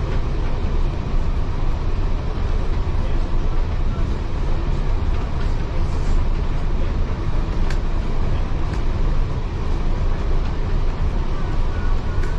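Heritage railway carriage running along the track, heard from inside the carriage: a steady, loud low rumble with wheel-and-rail noise, and a sharp click about two-thirds of the way through.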